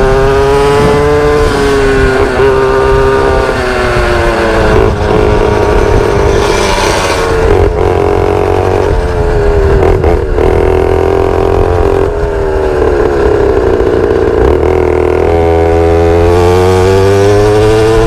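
Pit bike's small single-cylinder engine running hard while being ridden, its pitch repeatedly falling off and climbing again as the throttle is rolled off and opened. A few short knocks sound over it partway through.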